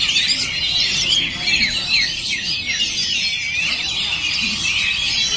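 Oriental magpie-robins (kacer) singing without a break, a dense run of rapid, overlapping whistles and chattering notes.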